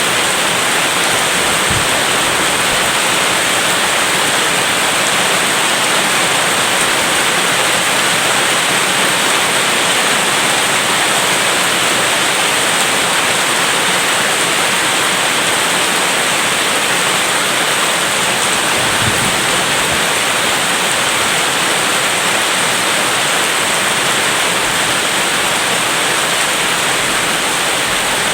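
Heavy rain falling steadily: a loud, even hiss with no let-up and no clear thunder.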